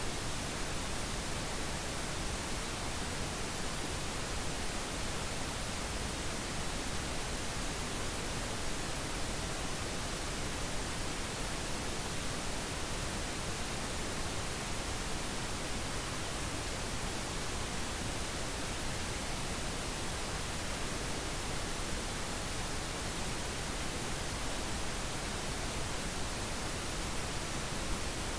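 Steady, unchanging pink noise.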